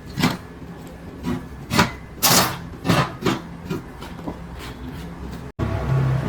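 A series of about eight irregular scraping strokes on a hard surface, the longest about two seconds in. Near the end the sound cuts to a steadier low hum.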